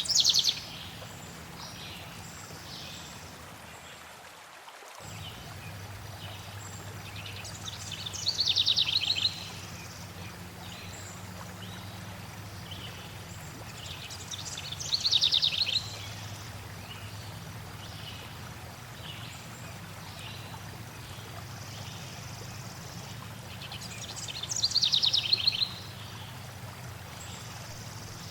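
Steady rush of flowing water, with a songbird singing a short, loud phrase that falls in pitch, four times at intervals of several seconds.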